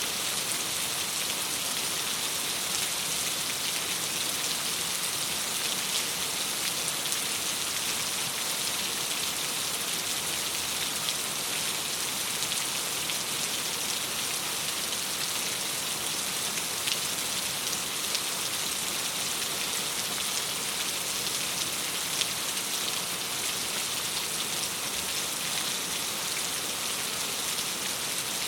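Steady rain falling on a window: an even hiss with scattered small ticks of drops.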